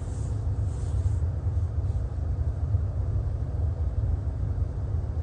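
Steady low rumble of a long BNSF freight train rolling past on the grade.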